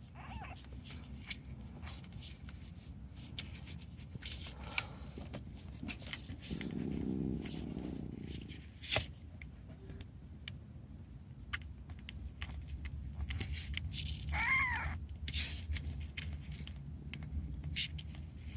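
Soft handling noises, with scrapes, rustles and small clicks, as newborn kittens are handled, and a single short high mew from a newborn kitten about fourteen seconds in.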